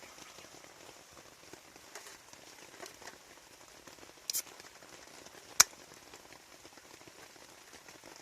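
Steady rain falling. A short hiss comes a little over four seconds in, and a single sharp click, the loudest sound, comes over a second later.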